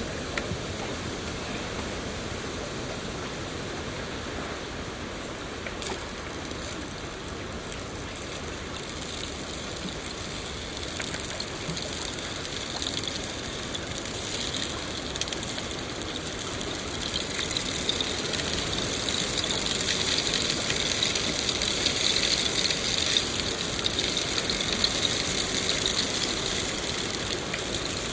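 Fire crackling over a steady rushing hiss; the fine crackle grows denser and louder about a third of the way in and stays up.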